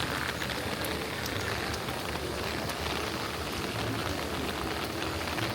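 Steady rain falling: an even hiss, with scattered sharp ticks of single drops.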